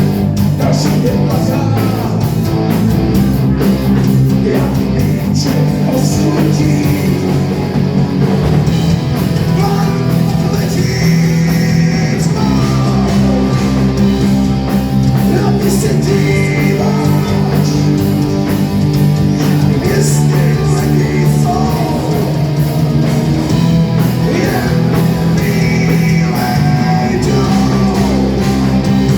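Rock band playing live, loud and steady, with electric guitars, a drum kit and a singing voice.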